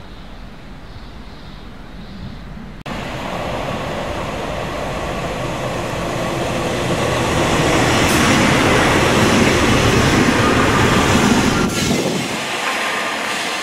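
Class 142 Pacer diesel multiple unit running into the station and passing close by: engine and wheels on the rails, growing louder to a peak before easing off about twelve seconds in. The train sound cuts in suddenly about three seconds in, after a quieter start.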